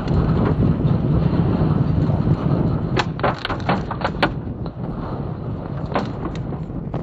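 Storm wind rushing and buffeting steadily. Sharp knocks and clatters come over it in a quick cluster about three seconds in, then a couple more near the end, typical of debris or hail striking.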